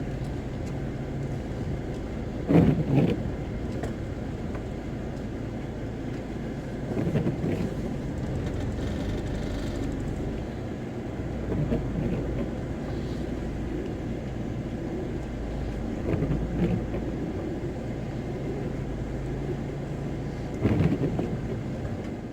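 Camper van being driven, heard from inside the cab: a steady low engine and road rumble, with a brief louder swell about every four to five seconds.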